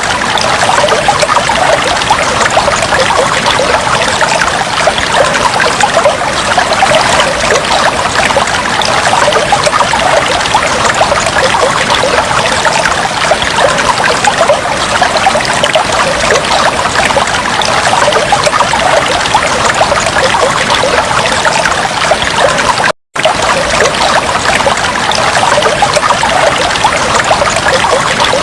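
Aquarium water trickling and bubbling steadily, a dense patter of fine splashes. The sound drops out for an instant about 23 seconds in.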